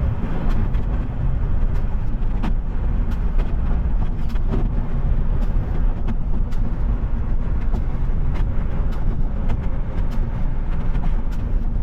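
Garbage truck running on the road: a steady low engine and road rumble with scattered light rattles and clicks.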